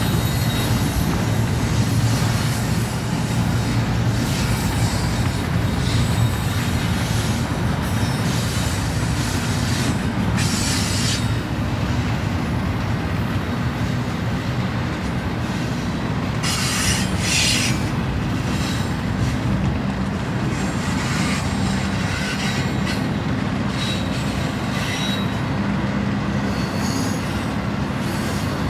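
A double-stack intermodal freight train's well cars rolling past, a steady rumble of steel wheels on rail. Brief high-pitched wheel squeals cut in about ten seconds in and again around seventeen seconds.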